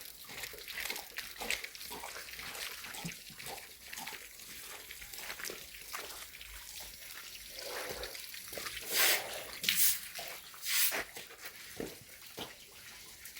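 Water splashing and sloshing in short strokes, with three louder splashes about nine to eleven seconds in.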